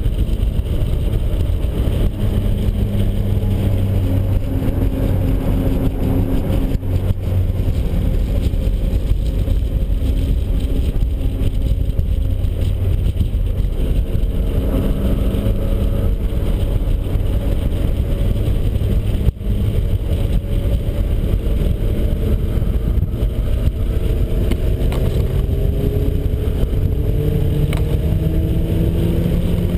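Turbocharged 1.9-litre stroker four-cylinder of a 1991 Mazda Miata running at speed on track, under heavy wind and road noise. Its pitch holds and wavers for most of the stretch, then climbs steadily under acceleration near the end.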